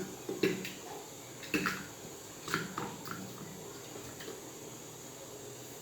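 Pieces of washed raw chicken being dropped by hand into a pressure cooker: a handful of short wet plops and slaps, the loudest right at the start, then fewer towards the end.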